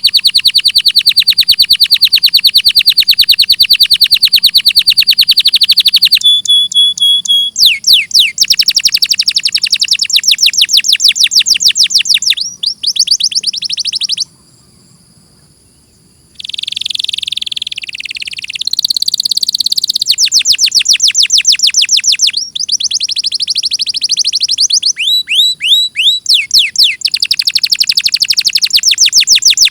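Domestic canary singing a long song of rapid, high trills, with a short pause near the middle followed by a harsher, buzzy phrase before the fast trills resume.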